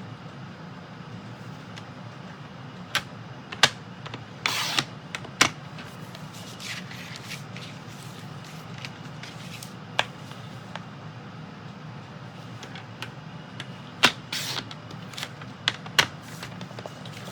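Cardstock being cut down and handled on a craft table: scattered sharp clicks and taps and two short scraping cuts, over a steady low hum.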